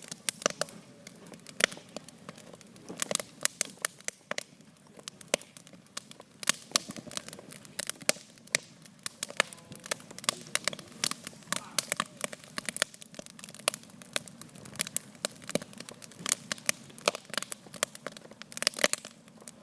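Wood campfire crackling, with irregular sharp pops and snaps, some of them loud, throughout.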